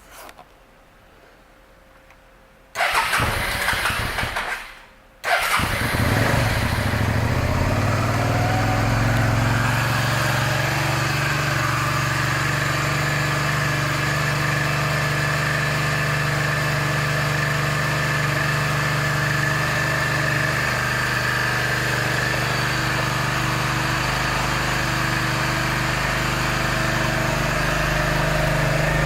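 Suzuki SV650S 645 cc V-twin being started: a first try of about two seconds stops, then about five seconds in the engine catches and settles into a steady idle.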